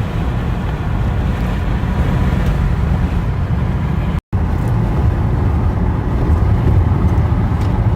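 Steady road and engine noise inside a moving car's cabin, a low rumble with no clear pitch. A split-second silent gap about four seconds in breaks it.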